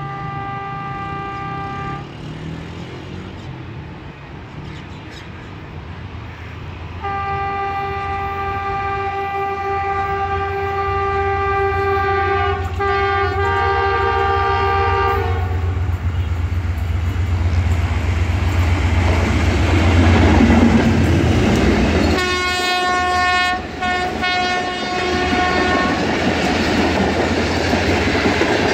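Pakistan Railways ZCU-30 diesel-electric locomotive No. 6352 hauling a passenger express past at speed. Its multi-tone horn ends a blast about two seconds in, sounds one long blast of about eight seconds from about seven seconds in, then a broken blast around 22 seconds. The diesel's low rumble grows and peaks as the locomotive passes, and then the coaches clatter by over the rails.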